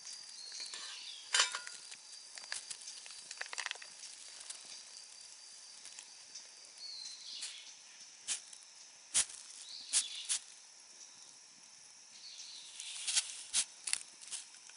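Outdoor ambience at a campfire cooking site: scattered sharp clicks and knocks, clustered near the middle and near the end, over a steady high-pitched hum with a few short chirps.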